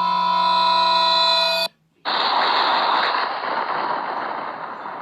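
A steady electronic buzzing tone that cuts off suddenly. After a brief gap comes a loud burst of hiss like static, which slowly fades.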